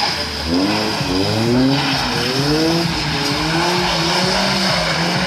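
The engine of an all-wheel-drive Mitsubishi Lancer X drifting in circles on snow, revving up and dropping back again and again in quick repeated rises, over a steady rush of noise.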